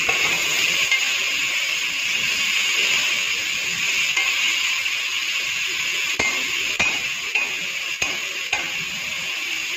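Sliced onions, mint and coriander leaves sizzling in oil in an aluminium pot as they are stirred, with a metal skimmer spoon knocking and scraping against the pot in about four sharp clicks in the second half.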